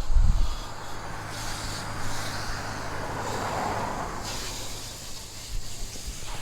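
A water spray hitting a truck's body as it is rinsed to wash off road salt, a steady hiss that swells in the middle, with a steady low hum underneath.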